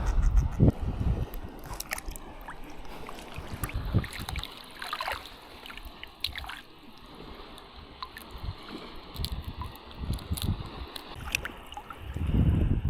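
Water sloshing and gurgling around a small boat, with scattered light knocks and clicks. There is a heavy low rumble at the start and again near the end.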